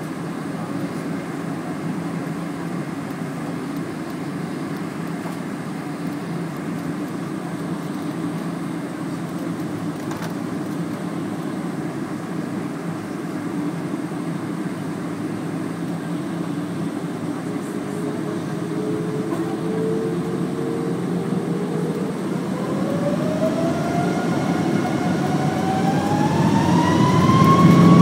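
Boeing 777 heard from inside the cabin: a steady engine and cabin rumble, then about two-thirds of the way in the engines' whine climbs steadily in pitch and the noise grows louder as they spool up toward takeoff thrust.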